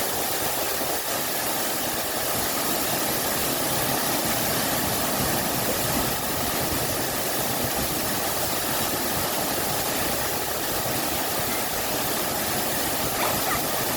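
Steady rush of a waterfall and fast-flowing stream, a loud, even roar of water.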